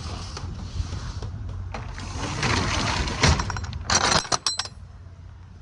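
Hard items rattling and clinking as a cooler is loaded: a rushing clatter about two seconds in, then a quick run of sharp clinks around four seconds in. A low steady hum underneath stops just after the clinks.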